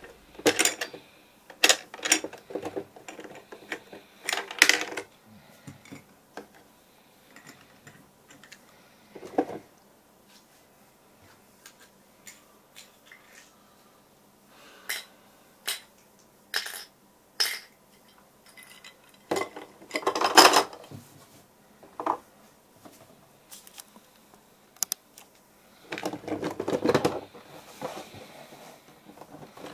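Plastic toy refrigerator play set being handled: scattered clicks, taps and small clatters of its pieces, with longer bursts of rattling about two-thirds of the way through and again near the end.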